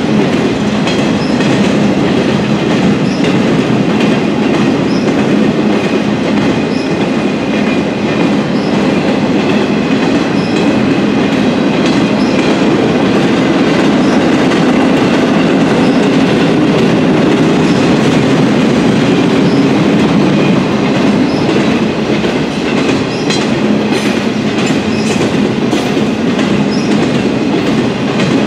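Freight train flatcars loaded with wind turbine blades rolling steadily past, their wheels giving an even rumble with a thin steady high tone over it and a few sharper clacks near the end.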